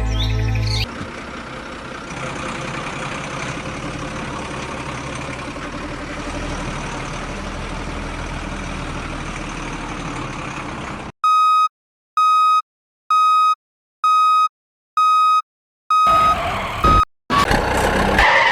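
Truck engine running steadily for about ten seconds, then a reversing alarm beeping seven times, a little over one beep a second, with clean silence between beeps. It is followed by a short jumble of mixed sound.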